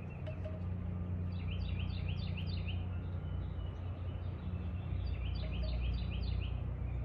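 A songbird singing a fast series of repeated chirping notes, twice, over a steady low rumble.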